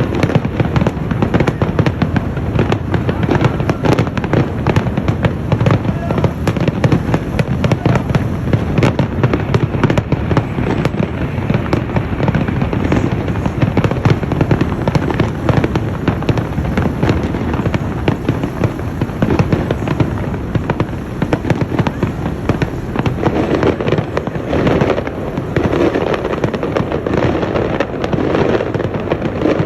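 Fireworks display in a dense, continuous barrage: rapid overlapping bangs and crackling with no pauses.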